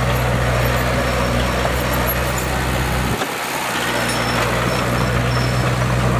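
Heavy construction machine's diesel engine running steadily, with a deep low hum. The lowest part of the sound drops away briefly about three seconds in, then returns.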